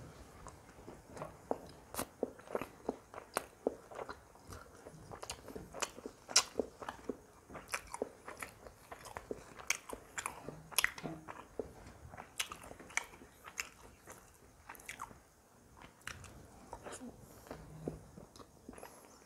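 Close-up chewing of roti and chilli chicken eaten by hand: wet mouth clicks and lip smacks, irregular, several a second, with a quieter spell near the end.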